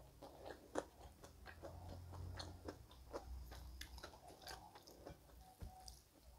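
A person chewing a mouthful of rice and meat close to a clip-on microphone: faint, irregular wet clicks and small crunches.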